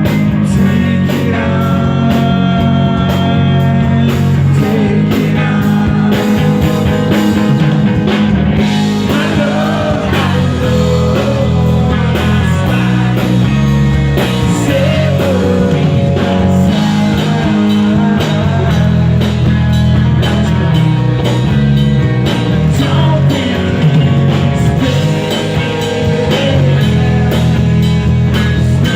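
Rock song with singing over guitar, bass and drums.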